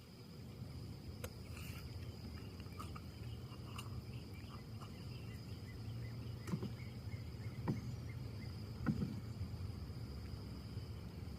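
Wind in trees over a low steady rumble, with a continuous high insect trill, scattered short chirps, and three sharp knocks in the second half.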